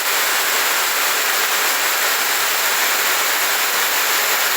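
Heavy rain falling with runoff water rushing down a flooded street: a steady, even hiss with no break.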